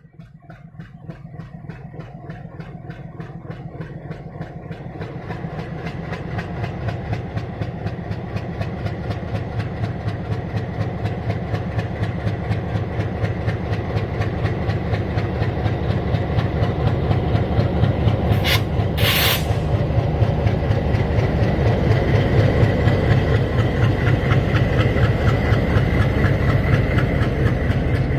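WDM 3D diesel locomotive's ALCO 16-cylinder engine working hard as the train pulls away, its rhythmic beat growing steadily louder, with wheels clicking over the rail joints. About two-thirds of the way through comes a short double hiss of air.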